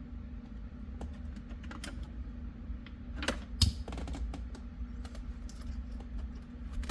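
Scattered light clicks and taps of hands handling plastic steering-wheel and airbag parts, with a louder knock about three and a half seconds in, over a steady low hum.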